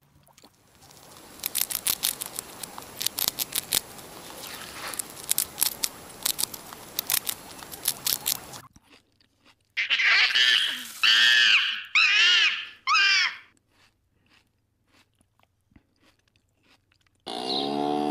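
Guinea pigs chewing grass: a rapid, irregular crunching and clicking of teeth on stems. This is followed by four short, high, arching animal calls in quick succession. Near the end a cow starts to moo.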